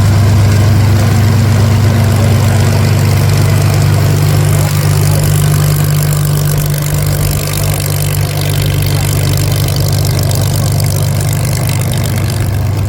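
Supermarine Spitfire's piston engine running at idle, a loud, steady low drone that eases slightly near the end.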